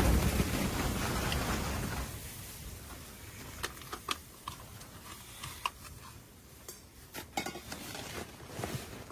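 Gusting wind for about the first two seconds, then it cuts away to a quiet space with scattered light clicks and clinks.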